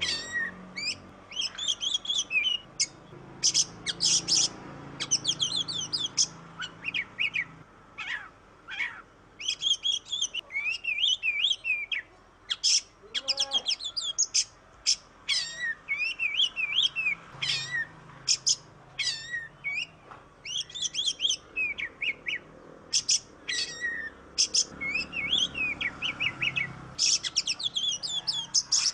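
An oriental magpie-robin (kacer) singing in full voice: a fast, varied run of whistles, trills and sharp chattering notes in bursts, separated by short pauses.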